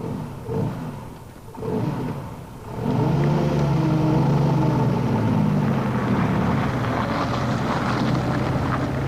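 Engine of a vintage military vehicle running, its note rising and falling over the first couple of seconds, then a louder, steady engine note from about three seconds in.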